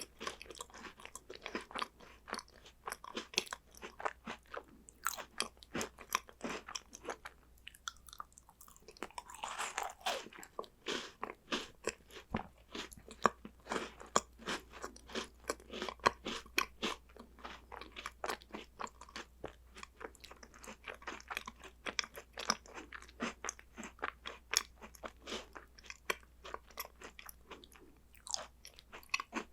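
Close-up crunching and chewing of crisp chocolate snacks: rapid crackly bites and chews, several a second, with a brief softer pause about eight seconds in.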